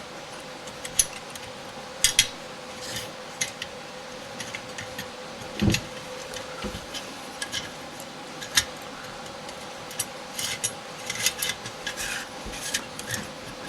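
Small sheet-metal toy pop gun parts being handled and fitted together: scattered light metal clicks, clinks and rubbing, with a soft knock about six seconds in.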